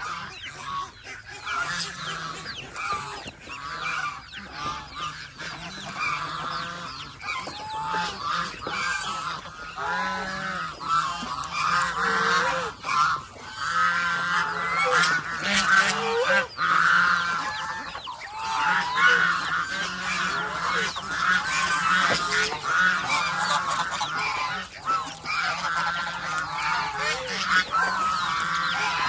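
A flock of domestic geese honking continuously, many short calls overlapping one another.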